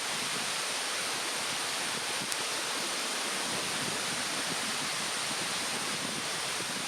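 Wood fire in a fire stand with a steady rush of a mountain stream behind it and a thin, steady high insect drone; one sharp crackle from the fire a little over two seconds in.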